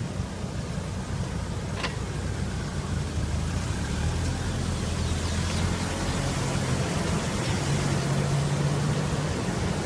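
Steady rushing of water with the low hum of an engine running underneath, the hum growing stronger a few seconds in.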